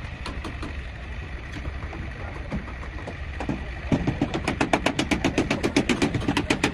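A low steady rumble. About four seconds in, a fast, even knocking starts, about six or seven strokes a second, and grows louder than the rumble.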